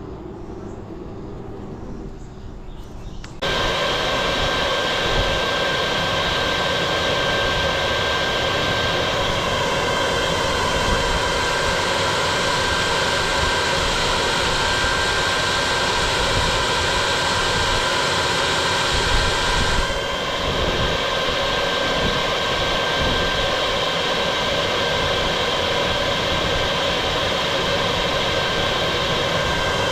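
Bee vacuum switching on about three seconds in and running with a steady whine, used to suck up the honey bees from a hive cutout. Its sound shifts slightly about twenty seconds in.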